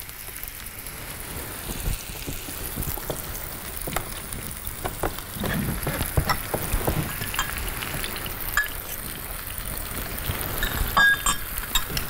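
Breaded chicken escalope sizzling as it fries in a pan, a steady hiss. Scattered clinks of utensils against bowls and dishes come through it, with a quick run of them near the end.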